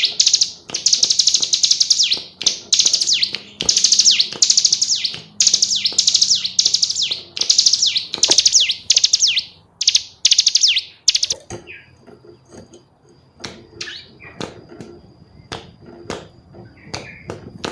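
Female ciblek gunung (Cigun) calling in rapid, stuttering trills of high notes, each note sweeping downward, repeated phrase after phrase. The calling stops about eleven seconds in, leaving soft scattered taps and clicks.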